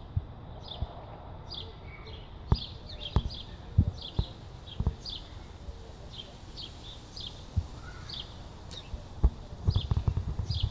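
Small birds chirping repeatedly in short falling chirps, about one or two a second, with scattered sharp knocks and a low rumble coming in near the end.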